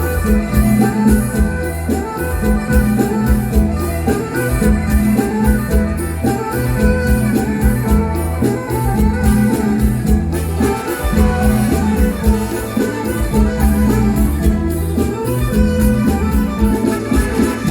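Live mor lam band playing an instrumental passage: amplified instruments over a heavy bass line, with a steady drum beat.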